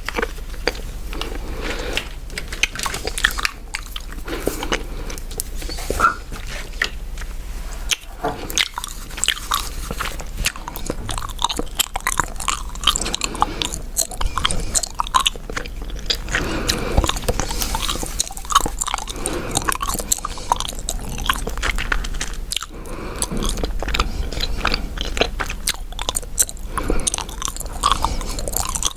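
Gum chewed close to a sensitive ASMR microphone: a continuous, irregular stream of wet mouth smacks and clicks.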